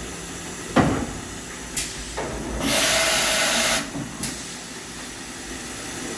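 A Mazak FH-6000 horizontal machining center's automatic tool changer cycling through a tool change: a sharp clunk, a few clicks, then a loud burst of compressed air hissing for about a second, followed by another click.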